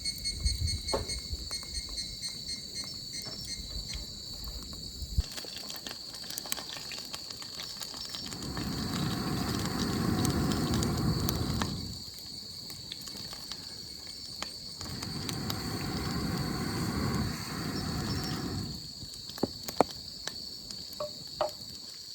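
Insects chirping steadily in high, pulsing tones, with scattered clicks and knocks. Two swells of rushing noise, each lasting a few seconds, come in the middle.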